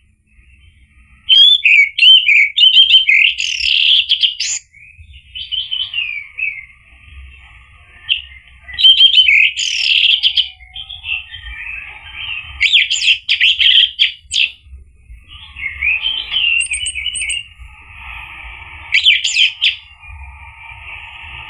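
Orange-headed thrush singing: loud bursts of rapid, varied whistled phrases mixed with chattering notes, beginning about a second in and broken by short pauses.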